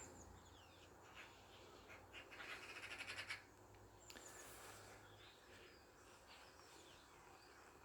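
Faint birdsong: scattered chirps, with a quick run of repeated notes about two and a half seconds in.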